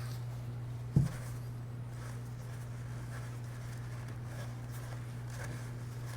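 Steady low electrical hum, with one sharp knock about a second in and faint scattered handling noises from cleaning the disco light's housing.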